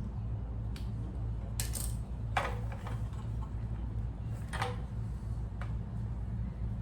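Small metal parts and hand tools clinking and clicking a handful of times as they are handled during carburetor work, a couple of the clinks with a brief scrape, over a steady low hum.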